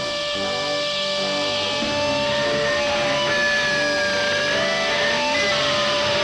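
Electric guitar music, with a long held note and sliding pitches over a rhythmic low part.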